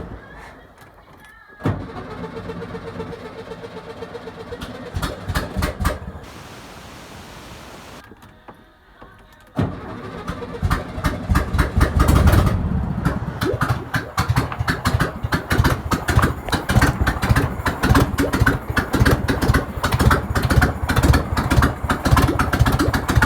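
1971 VW Beetle's air-cooled flat-four engine being cranked over, then catching about ten seconds in and running with rapid, loud firing pulses, with no exhaust properly fitted, on a little petrol poured in by hand.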